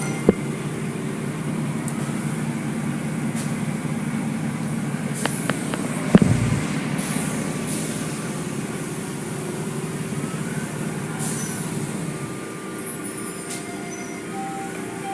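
Automatic car wash machinery running: a steady drone with short hissing bursts. Two sharp knocks, the louder one about six seconds in.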